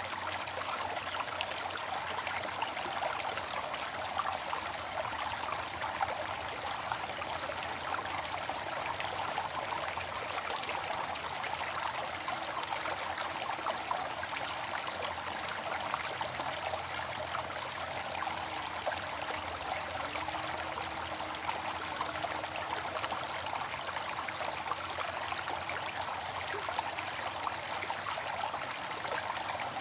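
Water fountain running with a steady, even splashing and trickling of falling water.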